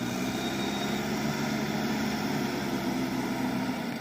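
Heavy diesel engine of a working vehicle running steadily at a constant speed.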